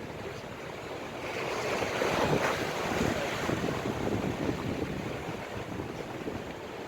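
Storm waves breaking and washing on the shore, with strong wind buffeting the microphone. The surf noise swells about a second in and then slowly eases.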